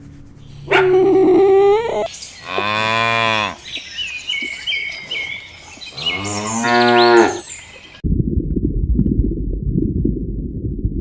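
Cattle mooing: two long, deep moos a few seconds apart, with a shorter call before them and high chirping in between. After the second moo a steady low rumble starts abruptly.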